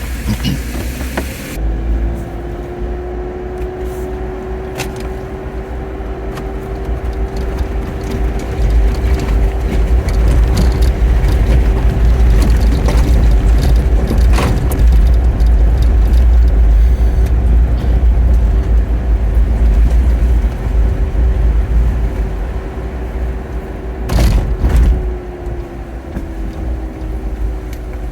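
Jeep Wrangler driving slowly: a steady engine drone over a low rumble, building louder in the middle and easing off near the end, with a few short knocks.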